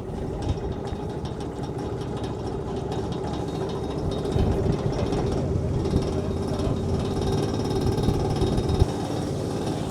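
Engine of a small local river boat running steadily under way, a steady hum with a rough low rumble.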